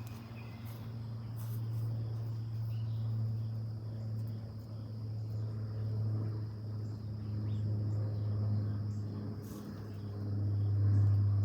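Steady high-pitched trill of an insect chorus over a louder, steady low hum, with a few faint short ticks.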